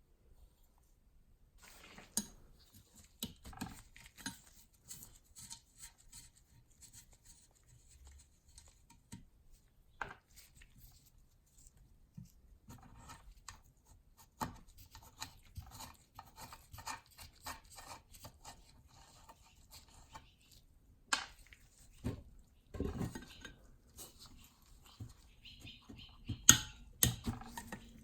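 Small metal parts and hand tools clinking, tapping and scraping during hands-on work on an antique ship compass, irregular throughout, with a few sharper knocks about two thirds of the way in and near the end.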